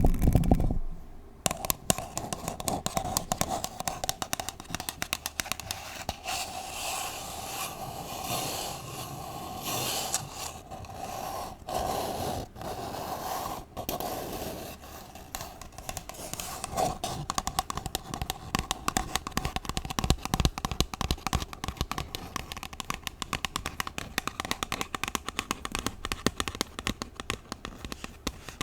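Long 3D acrylic nails scratching and scraping on a paper cup and the bare microphone, close up: dense, rapid, scratchy strokes with sharp clicks and a short pause about a second in.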